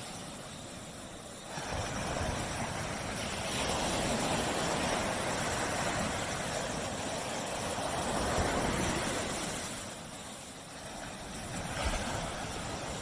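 Surf washing onto a beach: a steady rush of water noise that swells about a second and a half in, eases off around ten seconds, and builds again near the end.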